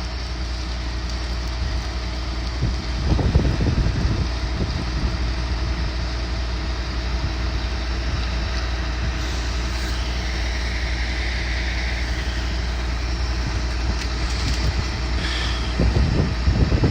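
Diesel engine of heavy demolition machinery running steadily at low revs, with louder low rumbles about three seconds in and again near the end.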